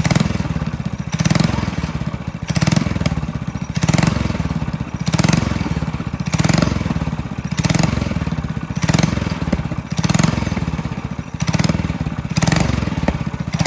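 Minibike engine running through a small aftermarket muffler, rising in regular surges about once every second or so.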